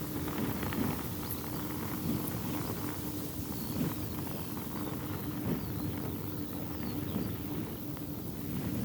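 Silk veil flapping and fluttering rapidly in strong wind, with the wind buffeting the microphone.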